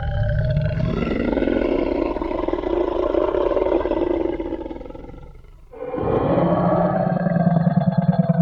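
Tyrannosaurus rex roar sound effect: two long, deep roars. The first fades out about five and a half seconds in, and the second starts about half a second later.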